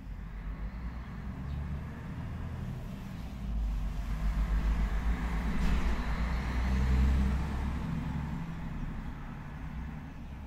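A motor vehicle passing by: a low engine rumble with road noise that swells to its loudest about seven seconds in, then fades.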